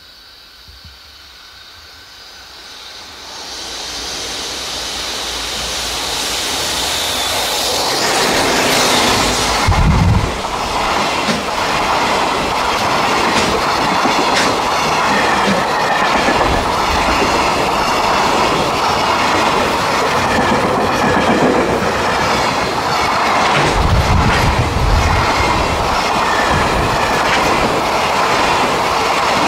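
Container freight train approaching and running past close by: a rising rush over the first eight seconds or so, then the container wagons rolling by with a steady clickety-clack of wheels over the rail joints and heavier low thumps now and then.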